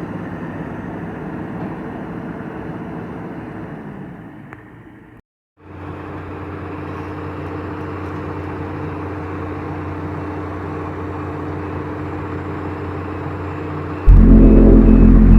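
Heavy vehicle engine running steadily, broken by a sudden cut a few seconds in, then a second steady engine. Near the end a loud horn blast sounds over the engine.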